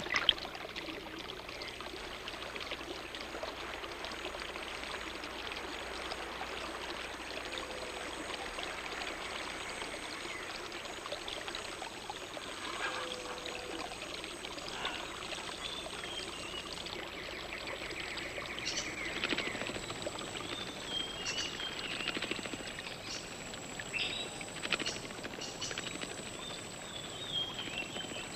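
Steady rushing water, with a few short chirping bird calls and clicks in the second half.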